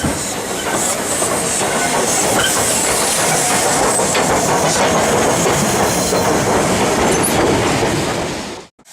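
Steam-hauled passenger train running past close by, its carriage wheels clicking over the rail joints. It cuts off abruptly near the end.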